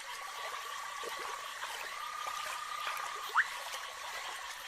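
Night wildlife ambience over shallow water. A steady high trill holds one pitch in three long spells, over a light trickle of water. One short rising call sounds about three and a half seconds in.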